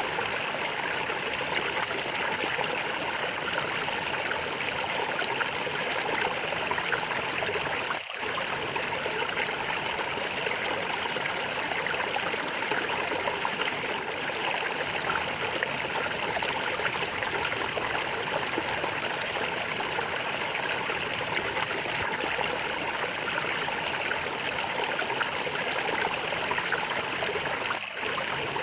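Stream water flowing and gurgling steadily, with two brief dips in level, about eight seconds in and near the end.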